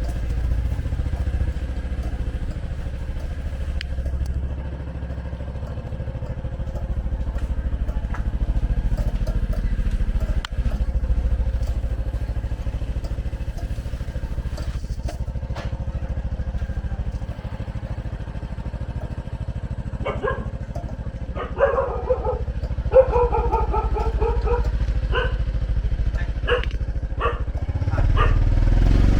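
Motorcycle engine running steadily as a low rumble. About two-thirds of the way through, a dog barks several times in quick bursts.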